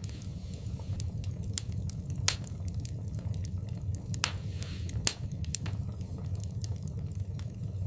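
Wood fire crackling in a fireplace: scattered sharp pops over a steady low rumble, the loudest pops about two and five seconds in, with a brief hiss a little after four seconds.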